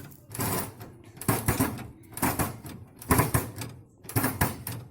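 Metal ratchet of a brazier's grill-grate lift clicking in quick runs, about once a second, as the grate is wound down toward the coals.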